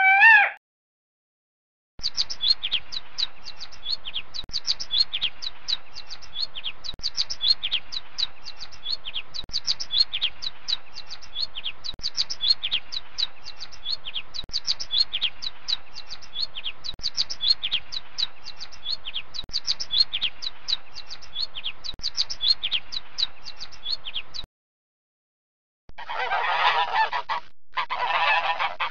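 Sparrow chirping: a long run of short, high chirps in quick succession. Near the end, after a short gap, swans honking.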